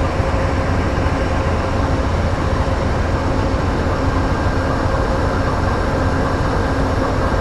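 Amtrak passenger train's diesel locomotive engine running steadily: a deep, even drone with steady tones held over it.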